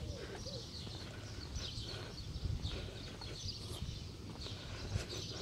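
Small birds chirping over and over, short high calls every half second or so, over a steady low rumble.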